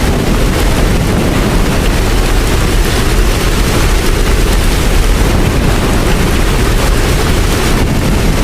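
Steady, loud rain: a dense, even hiss with a deep, constant rumble underneath.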